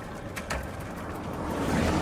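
Bicycle wheel and drivetrain spinning with a whirring noise; a sharp click about half a second in, then the whirr swells louder toward the end.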